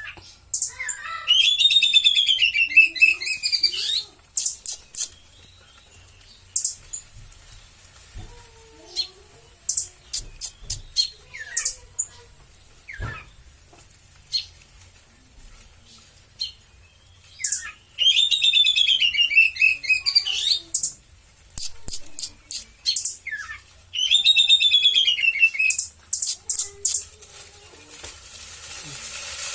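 Oriental magpie-robin singing: three loud, rapid warbling phrases of two to three seconds each, the first about a second in and two more in the last third, with sharp, very high short notes and clicks scattered between them.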